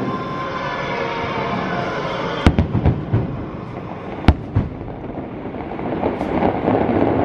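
Aerial fireworks shells bursting: a quick run of sharp bangs about two and a half seconds in and two more around four seconds in, over continuous noise from the display.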